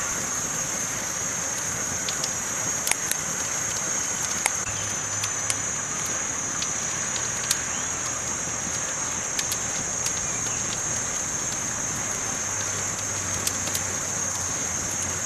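Campfire burning: a steady hiss with scattered sharp crackles and pops every second or so, over a steady thin high-pitched whine.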